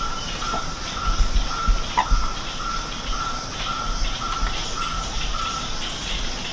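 Forest ambience: a bird repeating a single piping note about twice a second, stopping shortly before the end, over a steady high insect hiss.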